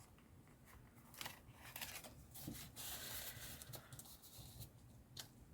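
Faint rustling and handling of paper and card, with a few light clicks and taps.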